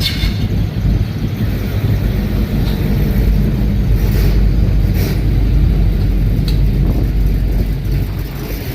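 Car engine running with a steady, deep low rumble.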